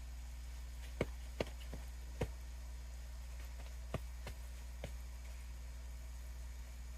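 About seven light, irregular taps and clicks from hands working a seedling pot and its soil, over a steady low hum.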